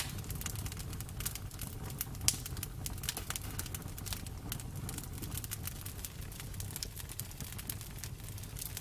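Bonfire burning: irregular crackles and pops of burning wood over a low, steady rumble of the flames, with one louder pop about two seconds in.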